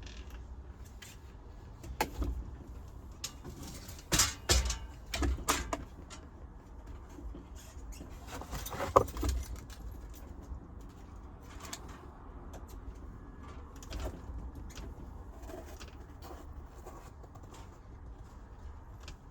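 Scattered knocks and clunks over a low rumble: one about two seconds in, several in quick succession about four to six seconds in, and a sharp one about nine seconds in.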